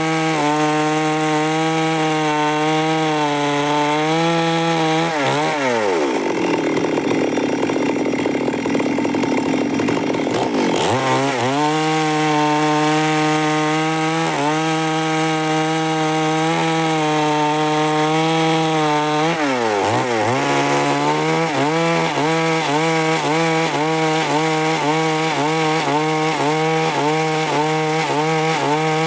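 Stihl MS 382 two-stroke chainsaw cutting through wood at high revs under load. About five seconds in the engine note drops away and runs low for several seconds. It revs back up about 11 seconds in and keeps cutting, with another brief drop in revs around 20 seconds and again near the end.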